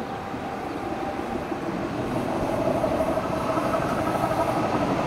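Appenzeller Bahnen ABe 4/12 narrow-gauge electric railcar running past, growing louder, with a steady whine coming up about two seconds in.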